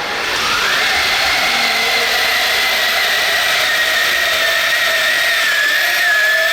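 RC pulling model's motor whining at high speed under load. Its pitch climbs over about the first second, then holds and slowly sags as the pull goes on.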